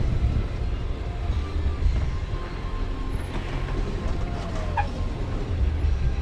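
Jeep Wrangler Rubicon driving slowly over an off-road trail: a steady low rumble of engine and tyres, with a few faint, short squeaks.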